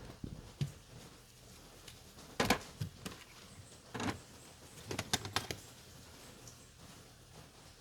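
Several short, sharp clicks and knocks at irregular intervals: a couple near the start, a louder one about two and a half seconds in, one at about four seconds, and a quick cluster of three around five seconds in.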